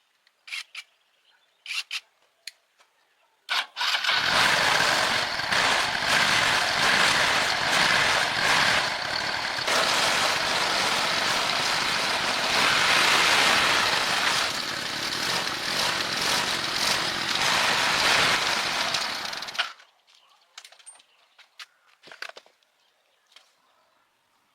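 A loud, steady rushing noise with no pitch that starts suddenly a few seconds in and cuts off suddenly about sixteen seconds later, with scattered light clicks and taps before and after.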